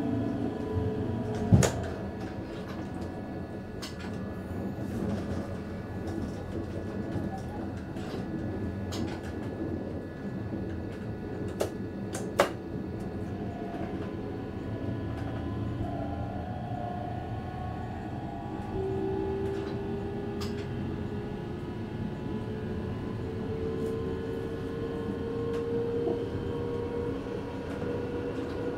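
Passenger train running, heard from the driver's cab: a steady rumble and hum, with a whine that slowly rises in pitch through the second half. There is a loud sharp knock about a second and a half in, and two more a little before halfway.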